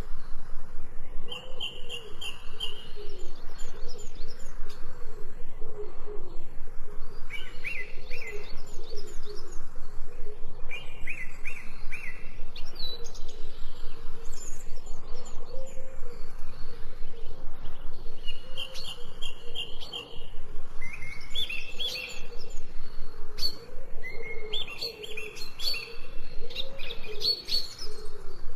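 Several wild birds chirping and calling: clusters of short, repeated high notes come every few seconds over a continuous background of lower chirping.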